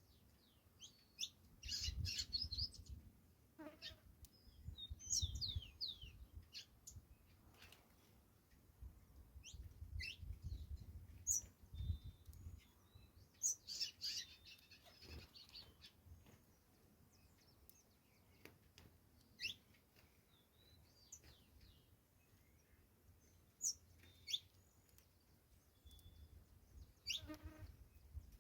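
Saffron finch singing in short bursts of rapid high chirps and trills separated by pauses, thinning to occasional single notes in the second half.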